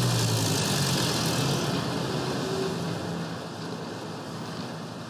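Car engine running just after being started, heard at its exhaust pipe, with a low hum over a hissing rush. It eases off and grows gradually quieter.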